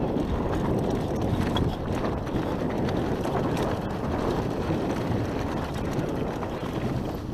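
Steady rush of wind over the microphone with the rumble of a downhill mountain bike's tyres rolling over a dirt trail at speed.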